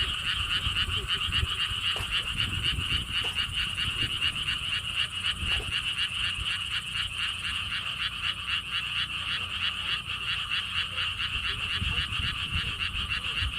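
A chorus of frogs calling from a pond, a dense steady train of fast, even pulses. Wind rumbles on the microphone underneath.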